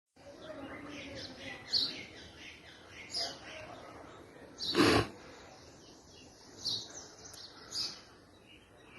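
Birds chirping in short calls every second or so over a low outdoor background, with one brief, loud sharp sound about five seconds in.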